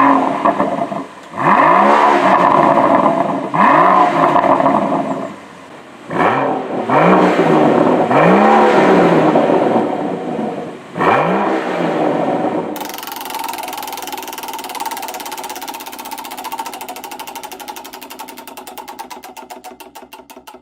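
BMW M760Li xDrive's 6.6-litre twin-turbo V12 being revved in about six sharp blips, each rising and falling in pitch. It then settles, about thirteen seconds in, into a quieter steady running with a fast even ticking that fades away.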